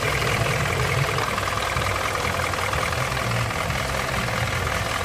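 Volkswagen Lupo 1.4-litre petrol four-cylinder engine idling steadily.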